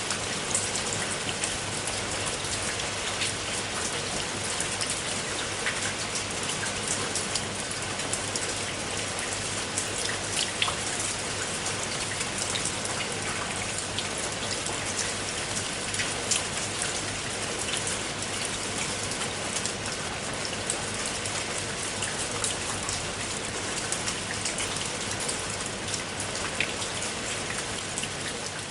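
Steady rain falling, a dense even hiss of drops with many small individual drop patters on a surface.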